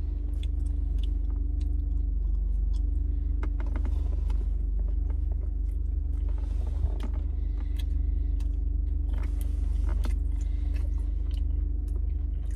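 A person chewing and biting into a barbecue tri-tip sandwich, with many small wet mouth clicks, over a steady low hum inside the car's cabin.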